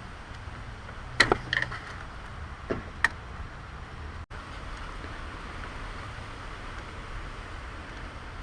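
A few sharp clicks and knocks of tools and parts during work on a car's engine bay, several in quick succession about a second in and two more near three seconds, over a steady low rumble.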